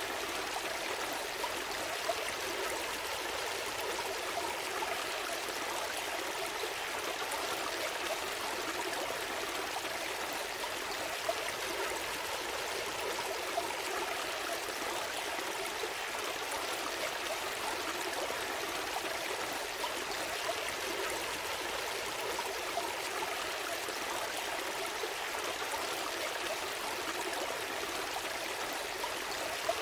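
A gentle stream flowing, a steady rush of water with small splashes and trickles.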